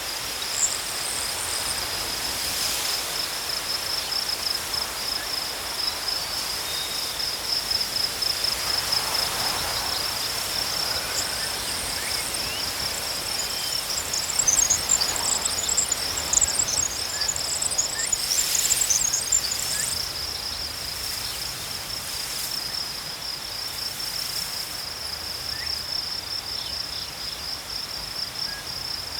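Crickets chirping in a steady, rapidly pulsing high trill that never lets up. A second, higher chirping comes and goes over it, busiest a little past halfway.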